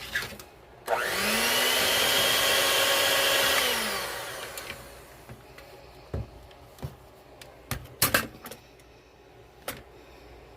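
Electric mixer beating cake batter: the motor whirs up about a second in, runs for about three seconds and winds down. A few sharp knocks follow.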